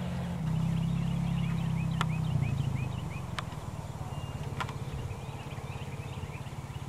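A bird chirps over and over in short, quick notes above a steady low mechanical hum, which is louder for the first couple of seconds. A few sharp clicks fall in between.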